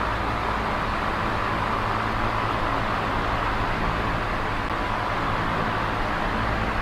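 Small oscillating electric fan running steadily: an even rush of moving air with a faint low motor hum underneath.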